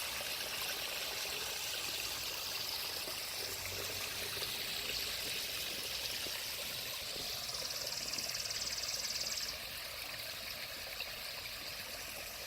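Water of a small pondless waterfall trickling and splashing steadily over serpentine boulders. It becomes a little quieter about nine and a half seconds in.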